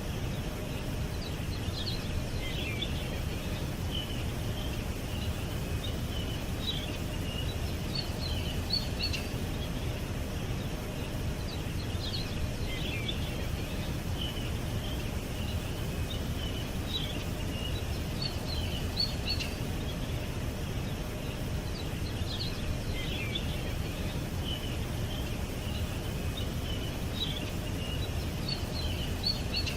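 Small birds chirping: short, high chirps and trills come in scattered clusters throughout, over a steady low background rumble.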